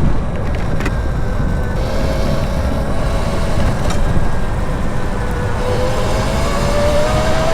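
Land Moto District electric motorcycle's motor whining as it rides, the whine dipping in pitch and then rising steadily near the end as it speeds up, over heavy wind rumble on the microphone.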